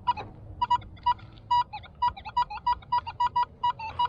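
Metal detector beeping on a buried metal target: short, high beeps repeating irregularly, several a second, coming faster after the first second.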